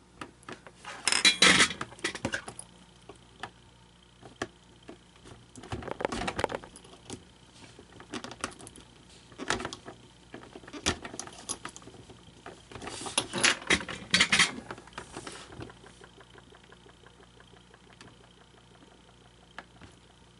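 Hands handling small hard plastic parts and tools, rattling and clicking in four short clusters, the loudest near the start and about two-thirds through, over a faint steady hum.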